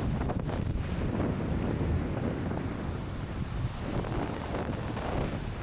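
Wind buffeting the microphone in a steady low rumble, over the wash of sea surf.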